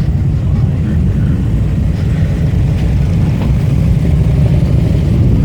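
Motorcycle engine running steadily at low speed, a loud, continuous low rumble.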